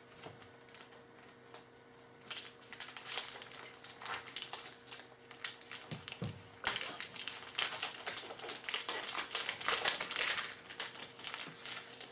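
Crinkling and rustling of a trading-card pack wrapper being handled and torn open, with the stiff cards shuffling. The crackling starts about two seconds in and gets busier in the second half.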